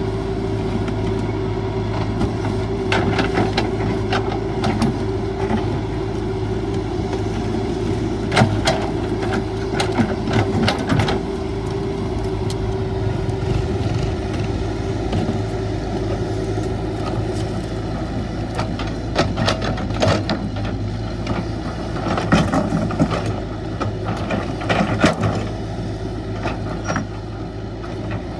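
CAT 312 hydraulic excavator working, its diesel engine running at a steady hum, with scattered knocks and clatters through it.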